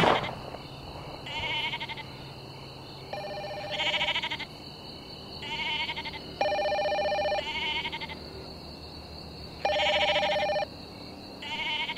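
Electronic ringing of a handheld phone with an antenna, an incoming call not yet answered. Short trilling rings alternate with steadier two-tone beeps, about one every two seconds.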